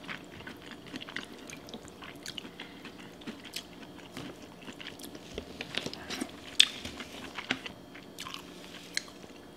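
Close-miked chewing of a mouthful of sausage and seafood boil, with wet mouth clicks and smacks, along with fingers picking through food in a glass bowl. Short clicks come at irregular moments, the sharpest about six and a half seconds in.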